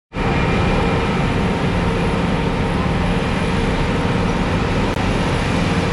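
Heavy diesel road-paving equipment running steadily: a constant low engine drone under a wide hiss.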